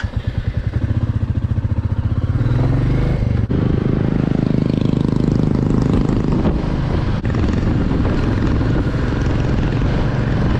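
Royal Enfield Classic 350's single-cylinder engine running as the motorcycle pulls away and picks up speed. Its pitch rises, breaks off briefly about three and a half seconds in, then it runs on steadily at cruising speed.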